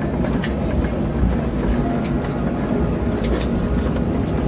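Airliner cabin noise during landing: a steady low rumble of the engines and airframe, with a few brief rattling clicks.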